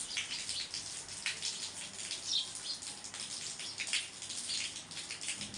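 Artificial rain: water droplets pattering and splashing irregularly over a steady hiss of falling water.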